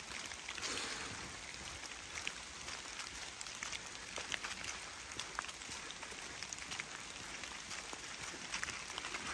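Rain falling in a forest: a steady patter with many sharp drips on leaves and the leaf-covered ground, mixed with the soft rustle of footsteps through wet fallen leaves.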